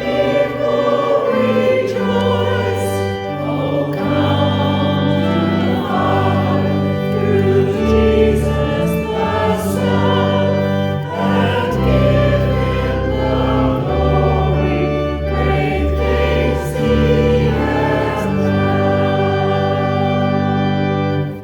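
Choir singing a hymn with a sustained organ-like accompaniment, ending with a held final chord that stops at the end.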